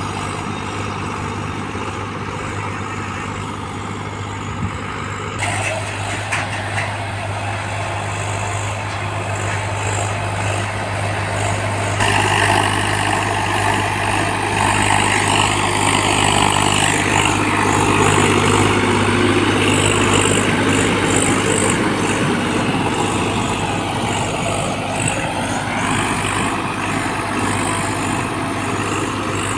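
Swaraj 744 XT tractor's diesel engine running steadily, growing louder and noisier about twelve seconds in, then easing back near the end.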